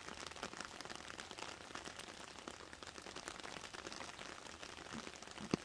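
Light rain pattering on leaf litter: a soft hiss full of small, irregular drips and ticks, with one sharper tap near the end.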